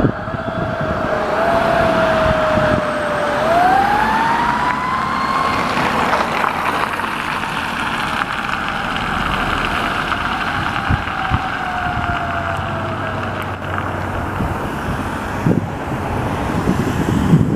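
Emergency vehicle siren wailing over road and engine noise: its pitch falls slowly, sweeps up about three seconds in, then falls away and fades out over the next ten seconds.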